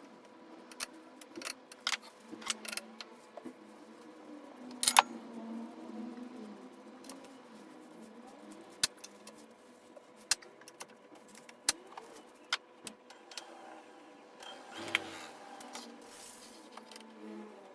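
Scattered sharp knocks and clicks, a dozen or so at uneven intervals, the loudest about five seconds in, over a low steady background.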